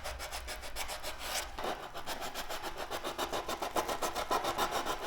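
Sanding by hand in quick, even back-and-forth strokes, with sandpaper rubbing over a hard surface, as in preparing bodywork for paint.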